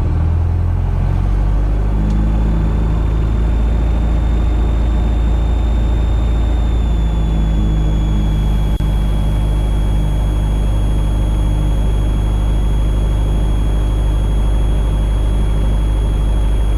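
Van's RV-8 light aircraft's piston engine and propeller running at high takeoff power: a loud, steady drone with a heavy low rumble. A thin high whine comes in about two seconds in and sinks slightly in pitch.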